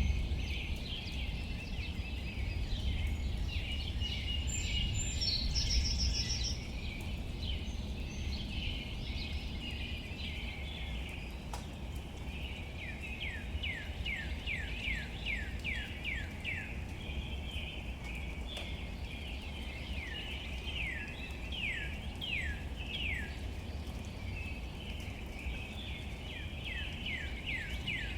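Steady rain on leaves as an even wash of noise, with a bird calling over it. A few brief high notes come in the first seconds. From about halfway there is a long run of quick notes, each sliding downward, about three a second.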